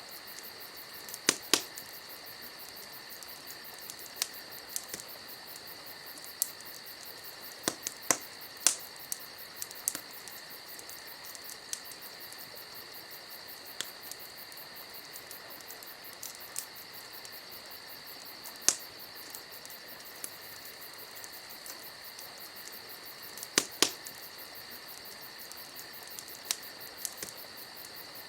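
Wood campfire crackling, with sharp irregular pops, sometimes two or three close together. Behind it crickets chirr steadily.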